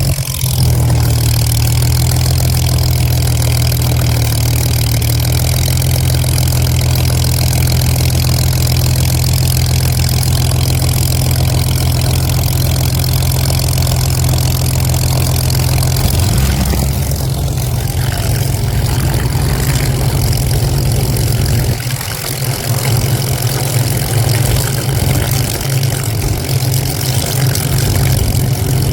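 Vintage piston aircraft engine running loud and steady at low power. Its note shifts about sixteen seconds in and grows more uneven later.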